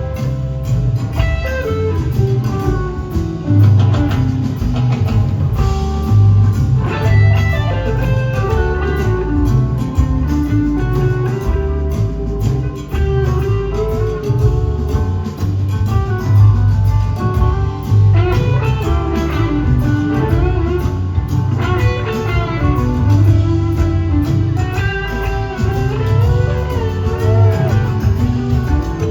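Live blues-rock band jamming: an electric guitar solos with bending, gliding notes over a heavy bass line.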